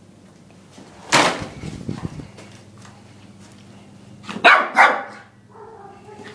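Small Lhasa Apso x Maltese puppy barking: one sharp bark about a second in, then two quick barks a little past four seconds, with a quieter vocal sound from the dog near the end.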